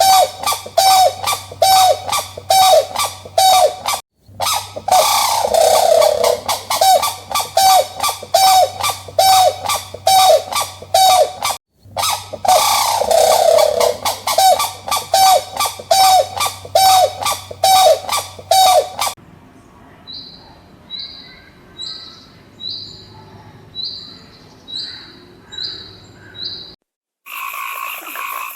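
An animal calling loudly in a rapid, even series, about three calls a second, with two brief breaks. About two-thirds of the way in, it gives way to quieter, short high peeps about once a second, and near the end a different call begins.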